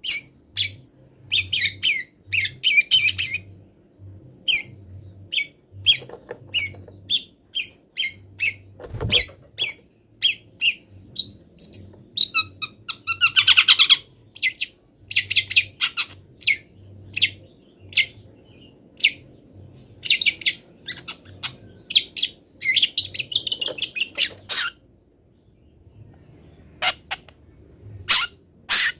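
Long-tailed shrike (cendet) singing a fast string of sharp chips and harsh squawky notes, its song mixed with mimicked calls of other wild birds. A dense, rapid trill comes about halfway through and again after about twenty-three seconds.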